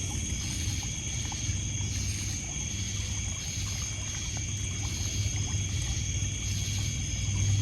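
Night-time lakeshore ambience: crickets and other insects trilling steadily at a high pitch, one of them pulsing about twice a second. Beneath them, water trickles and laps on a pebble shore over a low rumble, with a few soft campfire crackles.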